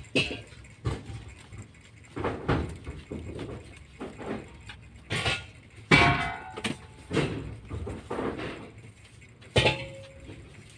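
Irregular knocks and rustling handling noises, with a short squeaky pitched cry about six seconds in.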